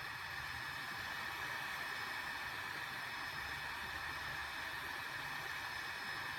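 Arizer desktop vaporizer's fan running steadily at its highest setting (speed 3), an even airy whir of blown air.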